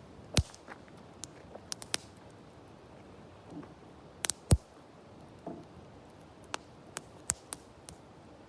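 Wood campfire crackling: irregular sharp pops and snaps, a dozen or so, with two louder pops about half a second in and again about halfway through.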